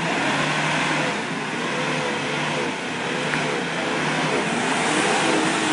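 Car engine revving, its pitch rising and falling again and again over a steady rush of noise.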